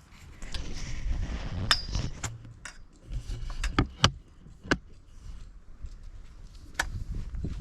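A series of sharp clicks and knocks, loosest in the middle and again near the end, over a low rumble.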